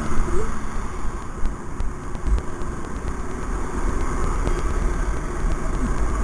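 Riding a motorcycle: steady engine and road noise, with wind rumbling low on the microphone.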